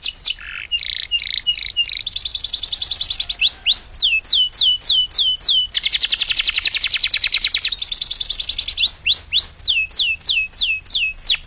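Canary singing: series of quick whistled notes that each fall in pitch, about four to five a second, alternating with long fast rolling trills, one about two seconds in and a longer one from about six to nine seconds in.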